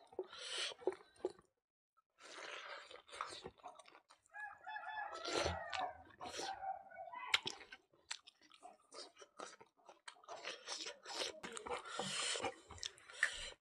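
Close-up chewing and crunching as rice and mutton curry are eaten by hand. A rooster crows in the background from about four and a half to seven seconds in.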